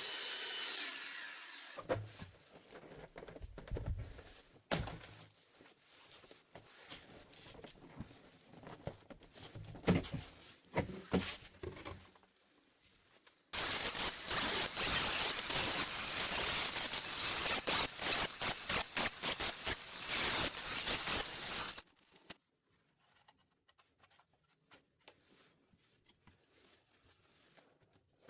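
Tool work: scattered clicks and knocks of parts and tools being handled, then about eight seconds of a power tool running loudly, starting and stopping abruptly.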